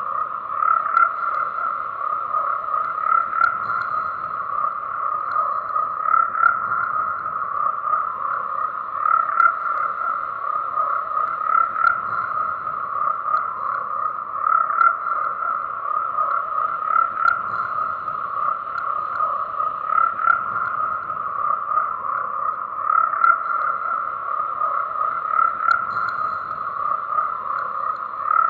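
A dense chorus of frogs calling without pause, a steady mass of croaks in one pitch band that swells a little every two to three seconds.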